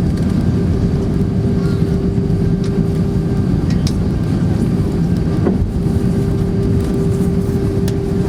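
Steady cabin noise inside an Airbus A319 on the ground after landing: the low rumble of the engines and air conditioning with a steady hum, and a faint click about five and a half seconds in.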